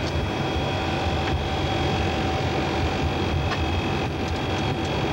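Steady noise of a Boeing E-3 AWACS in flight: a low rumble with thin steady whines over it and a few faint ticks.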